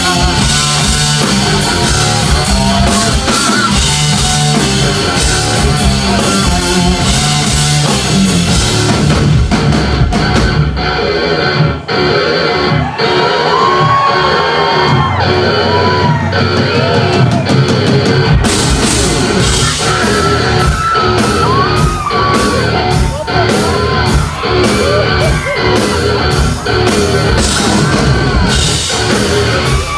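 Heavy metal band playing live, led by electric guitar over drums and bass, with yelling from the band or crowd. About ten seconds in, the drums and bass drop out for several seconds, leaving bending guitar lines, then the full band comes back in.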